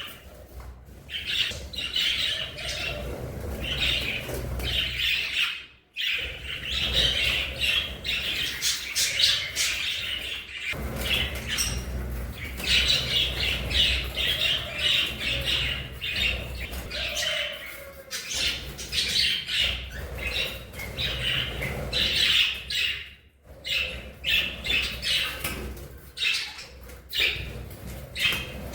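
A flock of budgerigars chattering and chirping without pause, breaking off briefly about six seconds in and again near the end.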